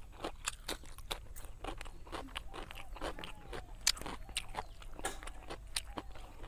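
Close-miked eating sounds: crunching bites into a slice of raw cucumber and chewing, a dense run of sharp, irregular crunches and mouth clicks, the loudest about four seconds in.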